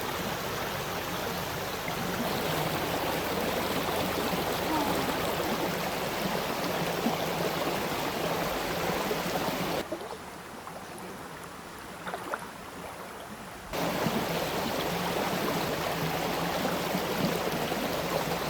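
Mountain stream rushing steadily over rocks, running high after rain. The sound drops noticeably quieter for about four seconds past the middle, then returns to full level.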